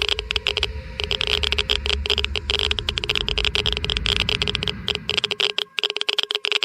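Geiger–Müller counter clicking rapidly and irregularly, a dense crackle of clicks, each one a detected ionizing particle: a high count rate. A low rumble sits under it and fades out about five seconds in.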